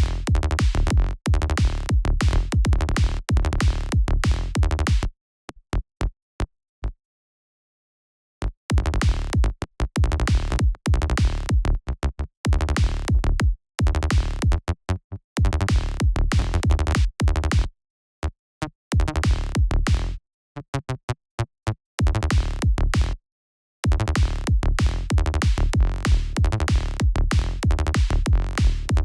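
An electronic kick drum and synth bass loop playing a steady, driving pattern. It stops and restarts several times, with a few short isolated hits in the gaps.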